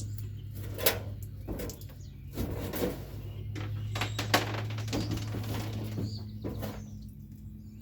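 Something loose inside a plastic Sun Dolphin kayak hull knocking as the kayak is rocked side to side, several separate thumps a second or so apart, over a steady low hum. The owner guesses the loose object is something big, like a piece of wood.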